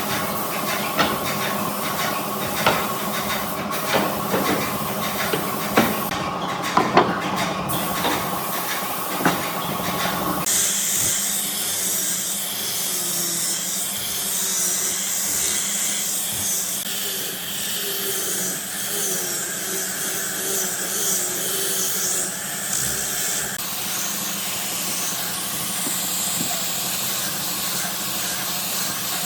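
Woodworking power tools running: a steady machine hum with a tone and irregular knocks, then an abrupt change about a third of the way in to a steady hissing noise of a tool working wood.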